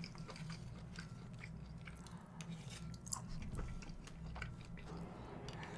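Close-up chewing of a mouthful of fried rice, with wet mouth sounds and scattered small crunches and clicks.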